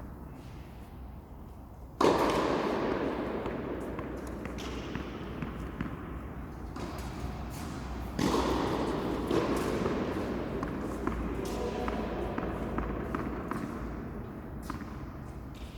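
Tennis ball being struck and bouncing during a doubles rally, with scattered sharp hits. Two louder thuds come about two and eight seconds in, each trailing off over several seconds.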